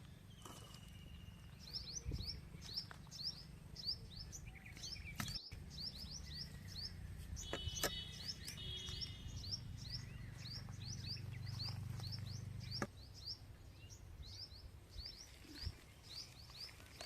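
A small bird chirping over and over in short, high notes, about three a second, over a steady low rumble.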